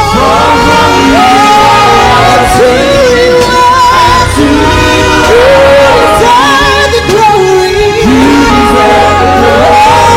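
Gospel worship song: singing over a band with sustained bass notes.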